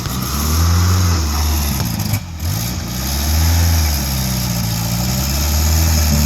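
A vehicle engine running, its speed slowly rising and falling, with a brief drop in sound about two seconds in.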